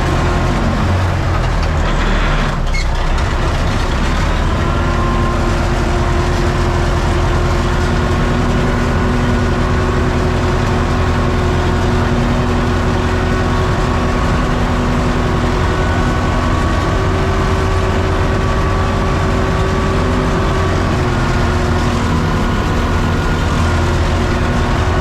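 UTB U650 tractor's four-cylinder diesel engine running steadily at a constant speed, its pitch shifting only slightly, with a brief disturbance about two and a half seconds in.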